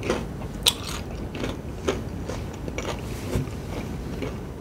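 Close-up chewing of crispy fried chicken, with short irregular crunches about every half second.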